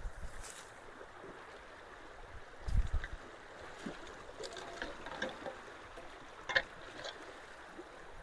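Creek water rushing steadily through road culverts after heavy rain. A low thump comes about three seconds in, and a few short, sharp clicks follow later.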